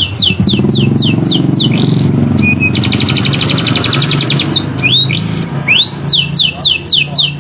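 Domestic canary singing: a string of quick, sharp downward-sweeping notes, then a fast, even roll (trill) about three seconds in, then more sweeping notes near the end. A rough, lower background sound runs underneath.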